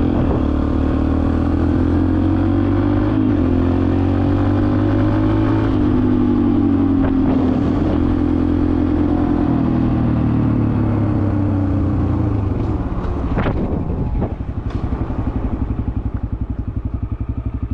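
Yamaha TT-R125 dirt bike's single-cylinder four-stroke engine under way, its pitch rising and falling as it is ridden. After about thirteen seconds it drops to a lower, steady chug, with a couple of sharp knocks.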